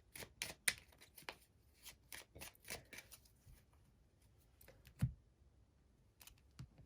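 A deck of Crystal Wisdom oracle cards being handled and shuffled: a run of quick card flicks and rustles, busiest in the first few seconds, with one louder thump about five seconds in.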